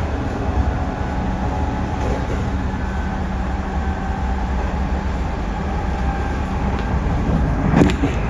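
Running sound of a JR Central 311 series electric multiple unit heard from inside the car: a steady low rumble with a constant motor hum, and a couple of sharper knocks near the end.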